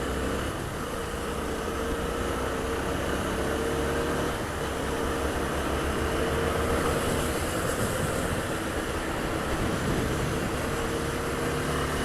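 Honda Twister 250 single-cylinder motorcycle engine running at a steady cruise, heard from the rider's seat over wind and tyre noise on wet tarmac.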